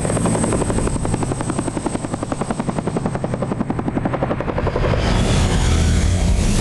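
Helicopter rotor chopping in a fast, even beat. About five seconds in, it gives way to a steadier rushing noise with a heavy low rumble.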